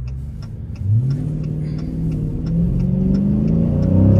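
Dodge Hemi V8 muscle car accelerating hard out of a right turn, heard from inside the cabin; the engine note jumps about a second in and keeps climbing. A turn signal ticks steadily underneath.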